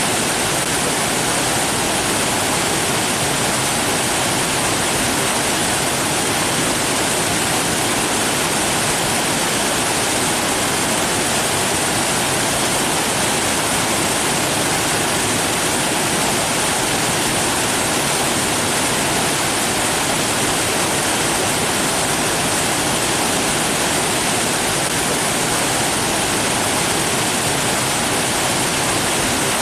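Rushing water, a steady and unchanging hiss with no breaks.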